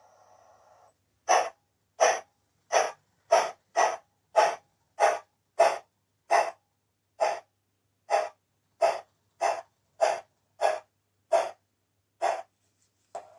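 Recorded steam-locomotive exhaust chuffs played by a MyLocoSound sound card through a small speaker in a 16mm-scale Wisbech tram engine model: about seventeen chuffs at roughly one and a half a second. They start about a second in and stop near the end.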